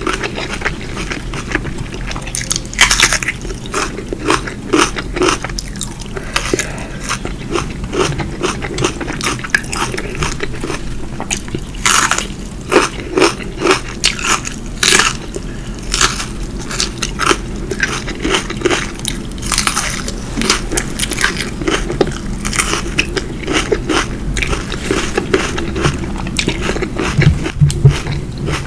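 Close-miked eating: biting and chewing food, with many irregular crisp crunches and mouth clicks.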